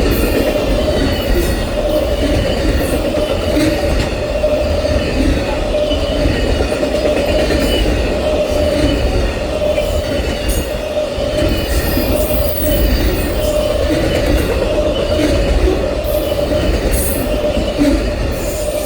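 Amtrak Auto Train cars rolling past, a steady rumble of wheels on the rails with a constant high wheel squeal.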